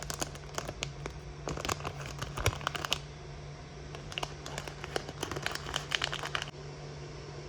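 Quick, small crinkling and clicking sounds in two bouts, over a steady low hum. The crinkling stops about six and a half seconds in, leaving only the hum.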